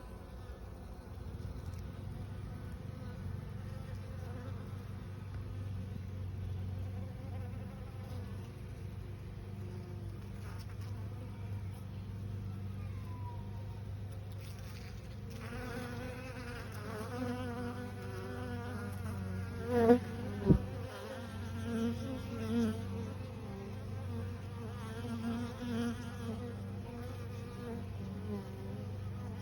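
Honeybees buzzing in a steady low hum. About halfway a higher, wavering buzz joins it, with two brief louder sounds about two-thirds of the way in.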